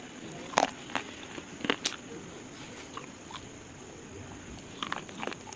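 Pieces of slate crunching and cracking: a string of irregular sharp snaps, the loudest in the first two seconds, with a quick cluster of cracks near the end.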